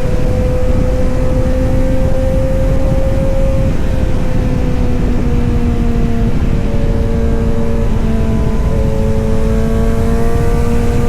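Kawasaki Z900 inline-four running through its exhaust with a steady engine note. The pitch dips slightly about four seconds in, then slowly climbs again.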